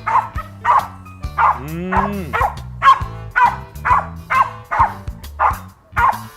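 A dog barking repeatedly at an even pace of about two barks a second, over background music, with one rising-and-falling whine-like glide about two seconds in.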